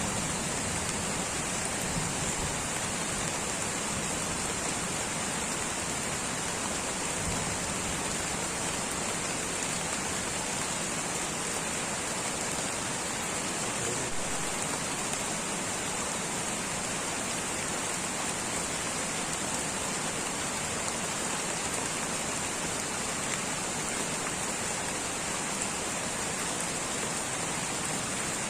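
Light rain falling steadily in a tropical rainforest, an even, unbroken hiss of drops with a steady high-pitched band running through it.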